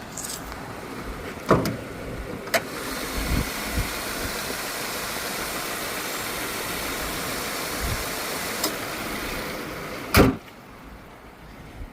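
A steady rushing noise with a few sharp clicks, then a car door shutting with a loud thump about ten seconds in, after which the sound is quieter and muffled.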